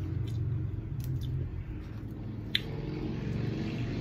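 Close-up eating sounds of crab and shrimp being chewed: wet squishing with scattered small clicks and one sharper click about two and a half seconds in, over a low steady hum.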